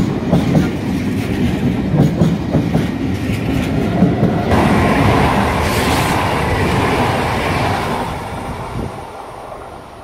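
A double-deck regional train rolls past, its wheels clacking over rail joints. About four and a half seconds in, this changes abruptly to a red Italo high-speed train rushing past close by: a loud hiss of air and wheels that fades away near the end.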